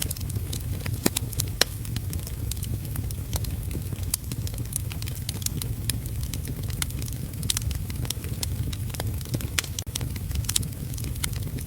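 Wood fire crackling, with frequent sharp irregular pops, over a steady low rush of heavy rain.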